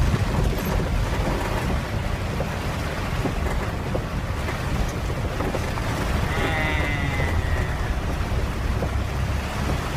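Heavy rain falling in strong wind, a steady rush with low wind rumble buffeting the microphone. A brief high call rises over it about six and a half seconds in.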